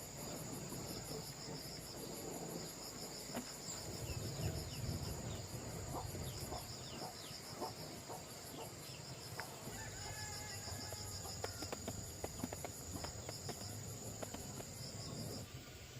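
Insects chirping in a fast, even pulsing trill, with scattered sharp clicks and light knocks in the middle. The chirping stops shortly before the end.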